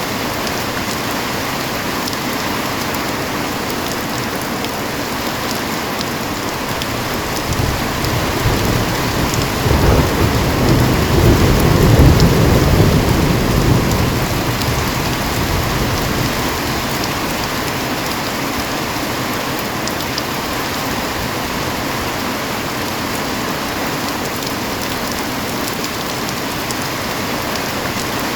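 Heavy rain pouring steadily, with a long, deep roll of thunder. The thunder builds about a quarter of the way in, is loudest near the middle, and fades away over several seconds.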